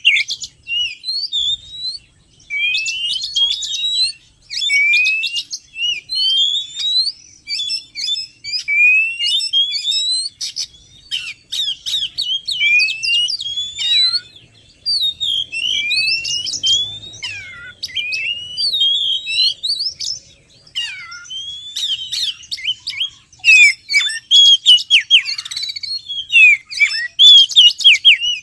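Oriental magpie-robin (kacer) singing a fast, varied song of whistled phrases, many sliding up or down, broken by short clicky notes and brief pauses.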